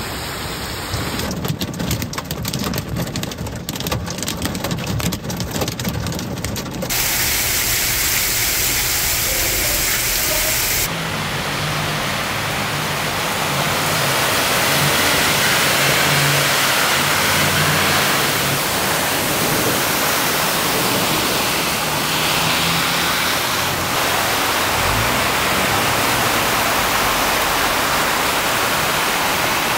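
Heavy downpour: dense rain with close drop hits for the first several seconds. After an abrupt change, cars and trucks drive through deep floodwater on a street, a steady rush and splash of tyres through water with engines running underneath.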